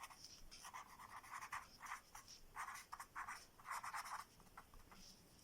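Faint handwriting: a writing tool scratching across a surface in short, irregular strokes.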